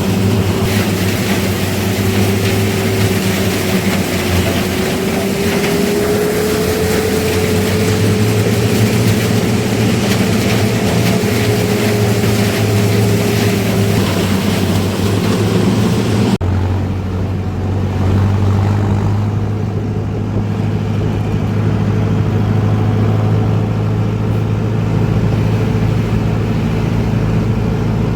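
Heavy diesel machinery of a sugarcane harvester and tractor running steadily at working speed, with a wavering whine over the first half. Past halfway the sound changes abruptly and the high hiss drops away, leaving a deeper engine drone.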